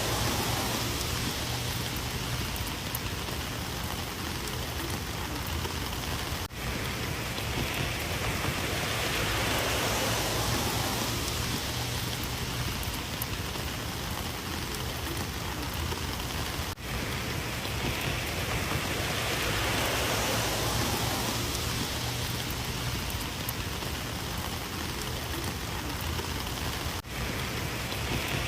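Heavy rain falling steadily, swelling and easing gently, with three brief dips in level about ten seconds apart.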